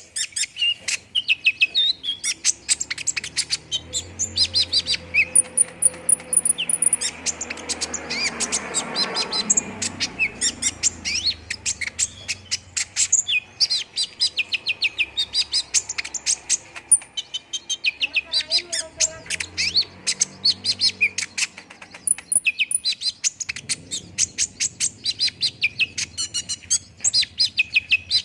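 Brown-throated sunbird (kolibri ninja) singing: a fast, continuous run of sharp high chirps and trills, with a thin high whistle held briefly a few seconds in and again past the middle.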